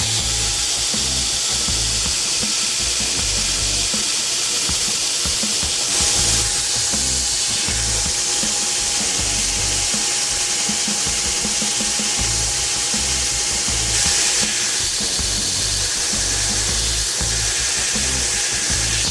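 A power grinder working steel, running steadily with a strong high hiss. It brightens briefly about six seconds in and again near the end.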